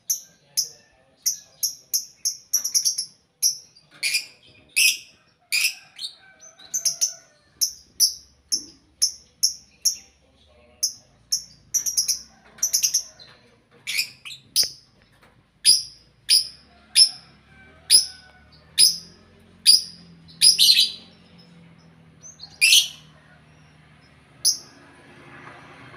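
Lovebirds calling: a long series of sharp, high-pitched chirps, about one or two a second.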